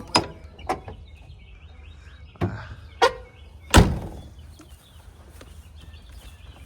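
A handful of sharp knocks and thuds, five in all, spread over a few seconds; the heaviest thud comes about four seconds in.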